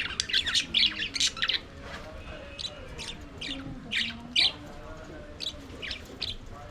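A flock of budgerigars chirping and squawking: many short, sharp high chirps, densest at first, thinning briefly about two seconds in, then scattered calls over a fainter low warble.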